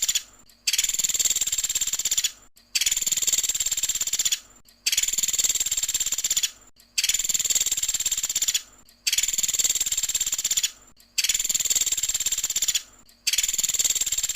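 A pelatuk sampit, a songbird kept by Indonesian bird fanciers, singing a high, very rapid trill. The trills come in bursts of about a second and a half, one every two seconds, evenly like a loop. This is the fast 'tembakan' (shot) phrase that keepers use to train other birds.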